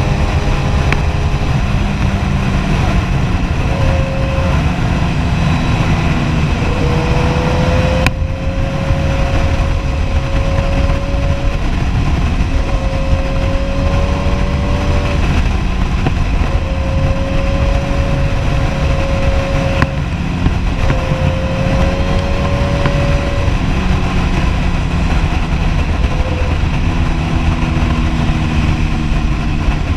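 Kawasaki Ninja ZX-10R's inline-four engine running at a steady cruise, its pitch holding with small rises and dips, over heavy wind rush on the microphone. There is a brief dip in the engine note about a third of the way in.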